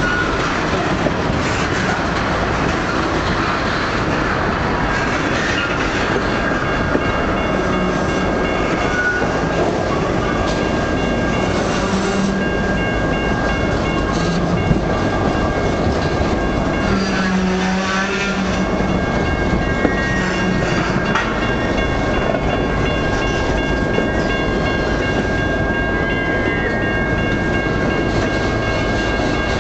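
Freight cars of a Canadian National train, a tank car and empty flatcars, rolling past at close range: a steady, loud rumble and clatter of steel wheels on the rails. From about seven seconds in, a thin, steady, high whine rides over it.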